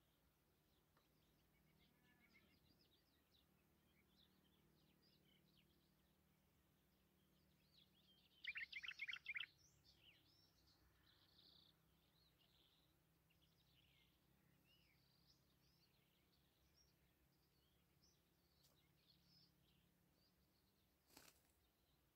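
Faint songbird chirps and song notes scattered throughout, with one louder burst of rapid repeated notes about eight and a half seconds in. A brief click near the end.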